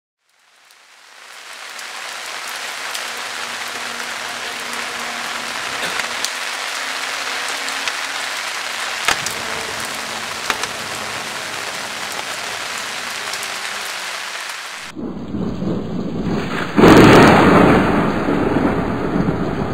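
Steady rain fading in, with a few sharp drips landing close by. About fifteen seconds in, a rumble of thunder builds and is loudest a couple of seconds later.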